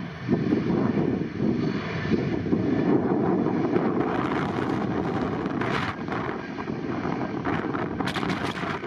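Wind buffeting the microphone over a steady low rumble, in driving snow.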